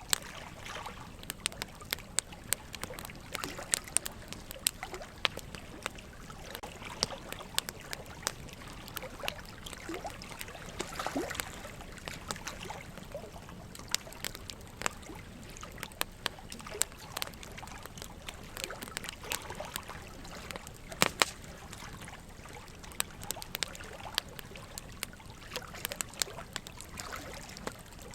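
Burning wood logs crackling in a fireplace, with frequent irregular sharp pops and snaps, a few louder ones about two-thirds of the way through, over a steady trickle of running water.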